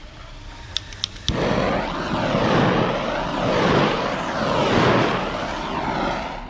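Three sharp clicks, then a loud rushing of air that starts suddenly about a second in and stops shortly before the end, its tone sweeping up and down in slow waves.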